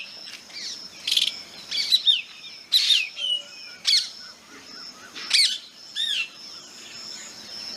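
Black drongo calling: short sweeping whistled notes mixed with harsh, scratchy notes, about one call a second, thinning out near the end.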